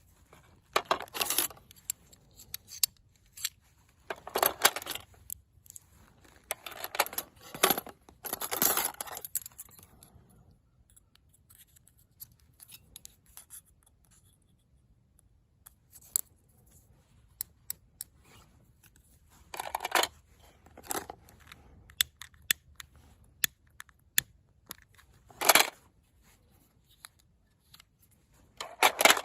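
Handling noises: short scrapes, each about half a second to a second long, in separate bursts with sharp clicks between them and quiet gaps.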